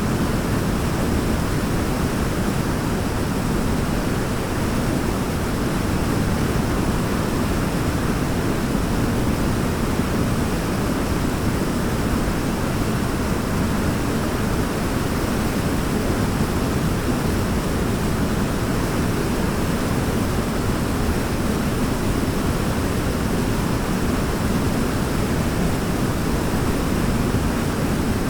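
Forest waterfall pouring steadily: an even, unbroken rush of falling water, deepest and strongest in the low range.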